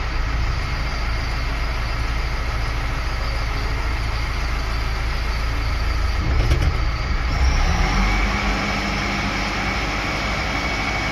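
Self-loading concrete mixer truck's engine running steadily under load. A bit past halfway it swells, and a steady whine joins in as the loader bucket is worked, the hydraulics lifting at about 1700 rpm.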